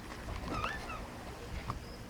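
Seagull calling: one short cry that bends up and down in pitch about half a second in, then a brief second note near the end.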